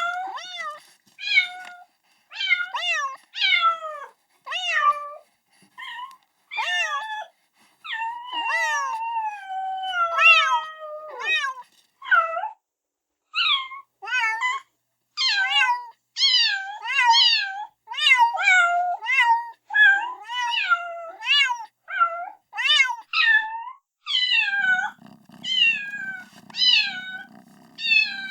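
Kitten meowing over and over, calling for its mother: short, high meows about one a second, with a few longer, drawn-out falling meows in between. A low hum joins near the end.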